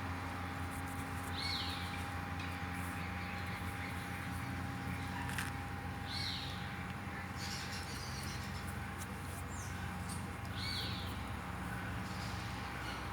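A bird calling three times, each a short call falling in pitch, about four and a half seconds apart, over a steady low hum.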